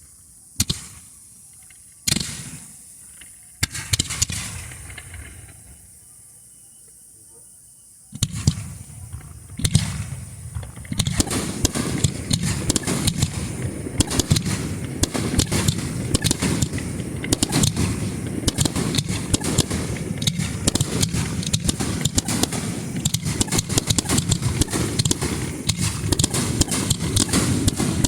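Starmine fireworks finale: a few separate launches and bursts, then from about eight seconds in a dense, rapid barrage of bangs and crackling that keeps going.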